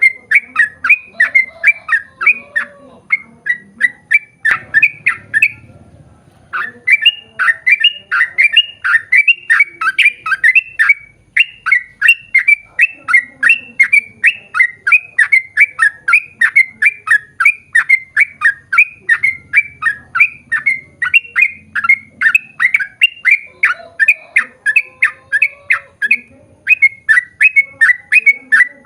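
Yellow-vented bulbul (trucukan) calling in a long rapid run of short, loud chirping notes, about three a second, with a short break about four seconds in.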